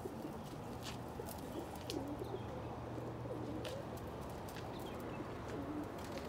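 Domestic pigeons cooing softly in a loft: several low, bending coos, with scattered light clicks.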